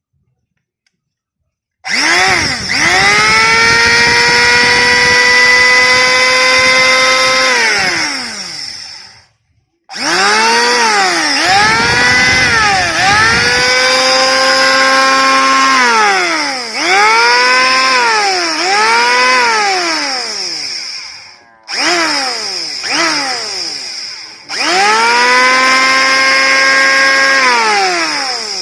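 Handheld electric wood planer test-run after a bearing replacement. The motor whines up to speed, runs steadily, and coasts down. It is then switched on and off in several short bursts, each rising and falling in pitch, before running at full speed again near the end.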